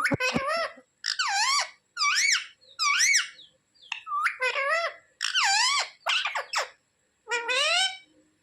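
Pet parrot giving a string of about nine shrill calls, each a short note that dips and rises in pitch, under a second apart.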